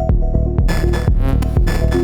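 Electronic techno music from a software modular synthesizer patch: a steady kick-drum pulse under short repeating synth notes, with two bursts of noisy, clap-like hiss, the first about two-thirds of a second in and the second near the end.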